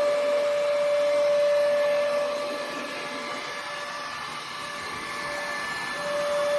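Robot vacuum cleaner running, a steady motor whine over a suction hiss. The whine fades out for a few seconds in the middle and comes back about six seconds in.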